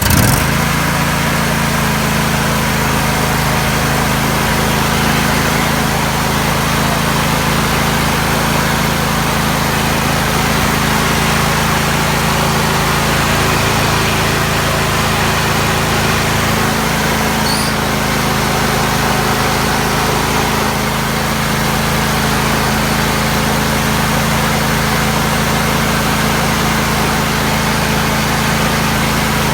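John Deere mower's 20 hp engine running steadily at an even speed, a constant low drone.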